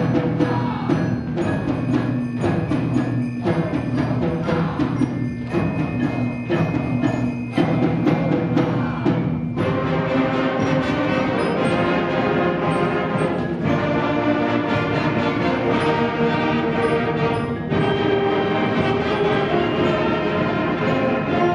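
Middle school concert band playing, with a rhythmic beat of struck percussion for about the first half, then the full band taking over with sustained chords.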